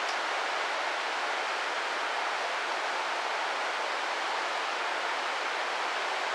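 Steady, even hiss of heavy typhoon rain.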